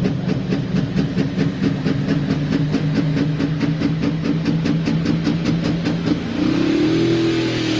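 Tractor engine running with an even, rhythmic pulse of about five beats a second, then rising in pitch about six seconds in and holding at the higher speed.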